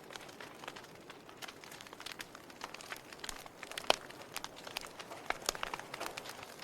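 Wood fire of burning logs crackling, with irregular sharp pops and snaps over a soft hiss; the loudest pop comes about four seconds in.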